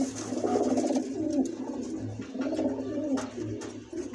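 Domestic pigeons cooing, several low calls overlapping and repeating.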